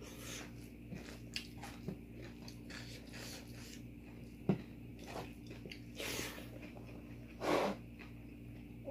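A person chewing and crunching food close to the microphone, with scattered small crunches and clicks and a louder burst near the end, over a steady low hum.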